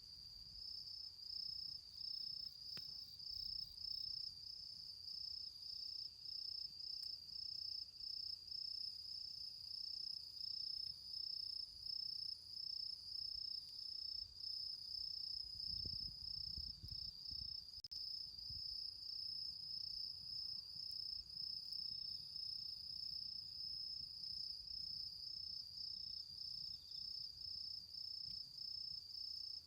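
Autumn crickets chirping in a steady, evenly pulsing high trill. About halfway through comes a brief low rumble.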